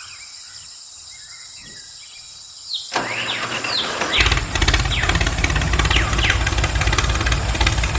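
Birds chirping. About three seconds in, a loud steady noise starts, and a second later a low engine rumble joins it, like a small engine starting up and running.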